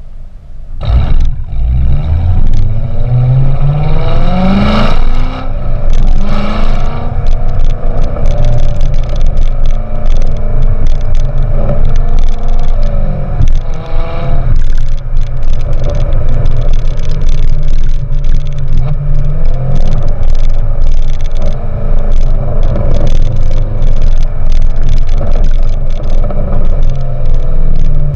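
2014 Corvette Stingray's 6.2-litre LT1 V8 through a GM Performance exhaust, loud, accelerating hard. Its pitch rises for a few seconds, drops at a gear change and climbs again, then it settles into a steadier run with smaller swells in revs.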